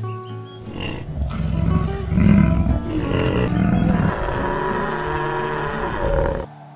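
A large wild animal calling: first a loud, rough, low call, then a higher wavering cry that cuts off suddenly near the end, over acoustic guitar music.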